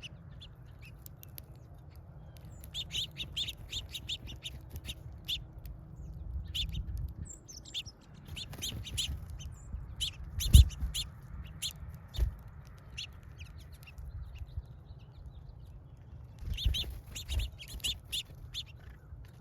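Small birds chirping in quick clusters of short, high notes over a low rumble, with a sharp thump about ten seconds in and a softer one shortly after.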